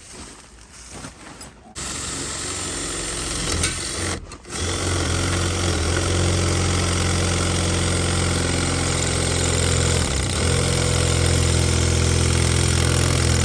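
An engine starts abruptly about two seconds in, cuts out briefly near four seconds, then runs steadily.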